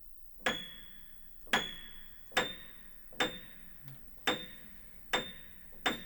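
Aldrich spinet piano's top-octave treble keys struck one at a time, seven short high plinks about a second apart, each dying away within about half a second.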